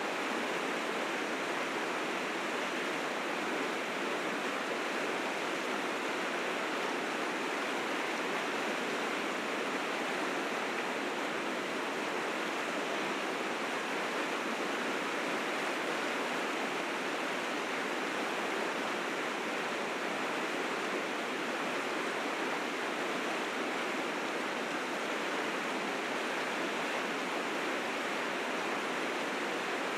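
River rapids rushing steadily, a dense even roar of whitewater carrying spring snowmelt in strong currents.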